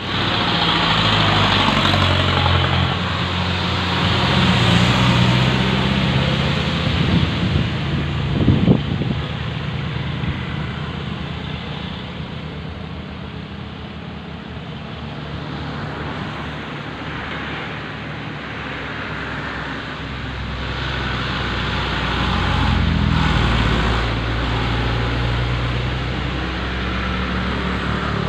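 Heavy dump trucks' diesel engines running as the trucks pass, the engine note rising and falling. A short loud knock comes about eight and a half seconds in.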